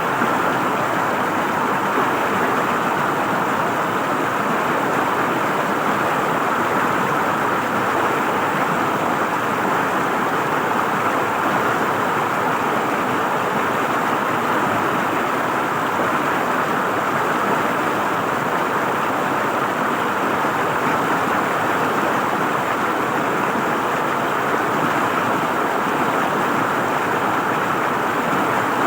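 River water flowing and gurgling over rocks, a steady rushing sound.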